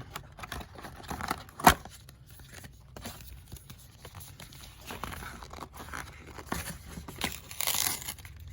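Cardboard and paper packaging handled and torn open by hand: scattered rustling and crinkling with small knocks, a sharp click about two seconds in, and a longer tearing rustle near the end.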